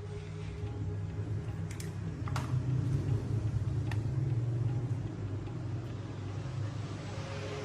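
A motor running with a steady low hum, swelling slightly in the middle, with a couple of light clicks about two seconds in.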